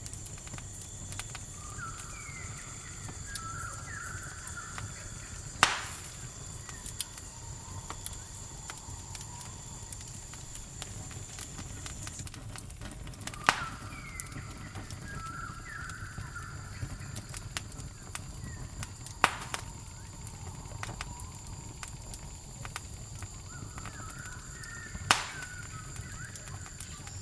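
Campfire crackling with a steady run of small ticks and four loud pops about six seconds apart, over a continuous high cricket trill. Short chirping bird calls come and go a few times.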